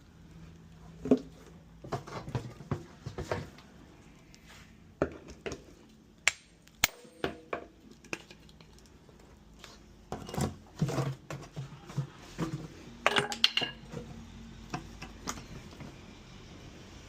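Irregular metallic clinks and knocks of tools and parts being handled, in clusters, some strikes ringing briefly.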